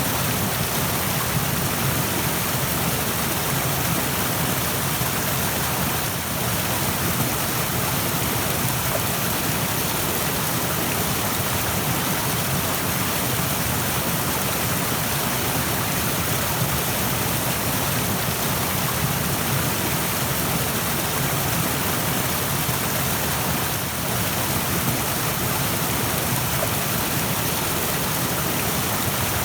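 A rushing stream: water flowing fast with a steady, even rush that dips briefly twice.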